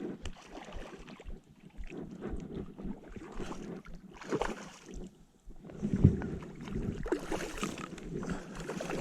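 Irregular water splashing and knocking from landing a hooked brown trout at the water's edge of a boat.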